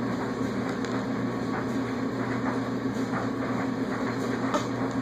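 A steady low mechanical hum, with a few faint clicks, one slightly louder about four and a half seconds in.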